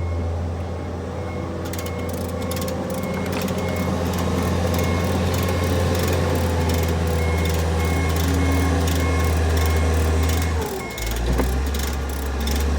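A heavy machine's engine running steadily, its pitch dropping about ten and a half seconds in, with a warning beeper sounding in a regular on-off pattern. From about two seconds in there is a run of clicks and rattles.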